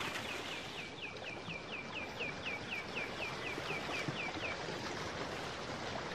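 A bird singing a fast run of down-slurred whistled notes, about five a second, that stops about four and a half seconds in, over a steady hiss.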